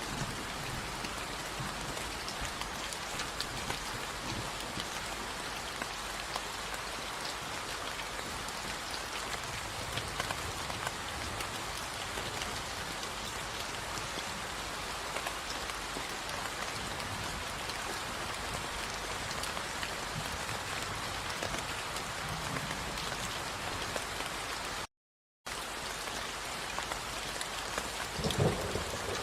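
Steady rain falling, a dense even hiss with scattered individual drop ticks. The sound cuts out completely for about half a second near the end, then resumes.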